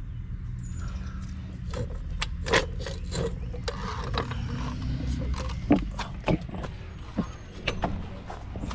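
Hand tools clicking and clanking in irregular knocks, some of them ratchet-like, over a steady low hum.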